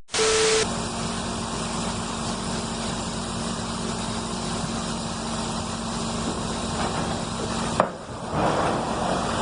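A vehicle engine running steadily with a constant low hum, after a short loud burst at the start; a sharp click comes near the end.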